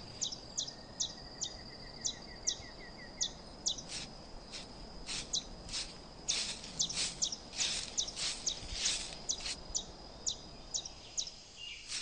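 Birds calling in forest: many short, high chirps repeating irregularly, about two a second, over a steady thin high whine. A fast ticking trill runs through the first few seconds.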